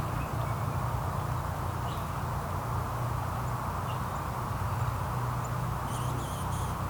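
Steady outdoor background hum with a few faint, short bird chirps scattered through it, and a brief run of quick high chirps near the end.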